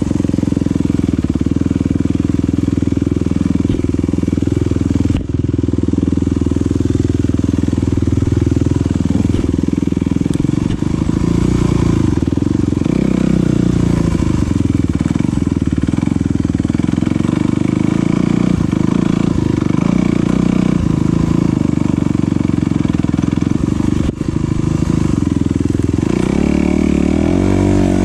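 Off-road enduro motorcycle engine running hard under a rider, its pitch rising and falling again and again as the throttle is opened and closed.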